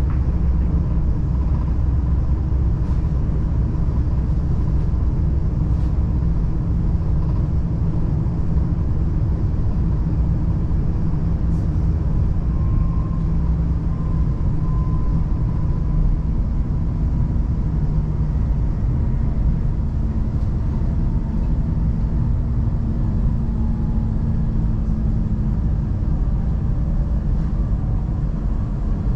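Steady low rumble of an S-Bahn train running at speed, heard from inside the carriage, with a faint high whine running under it.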